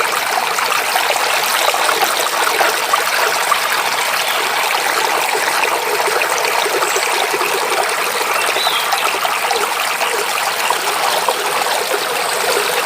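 Shallow stream babbling and splashing over rocks, a steady rush with fine bubbling texture. A single faint bird chirp about nine seconds in.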